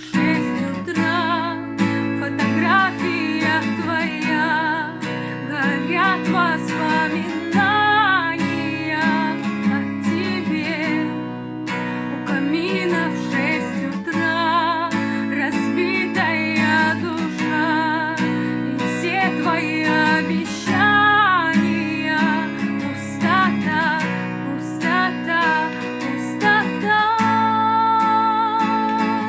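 Strummed acoustic guitar accompanying a woman singing a melody with vibrato, ending on a long held note.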